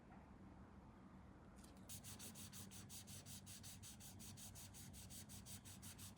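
Faint, quick back-and-forth rubbing strokes, about four or five a second, starting a couple of seconds in: a sanding stick or file worked over a small plastic model part.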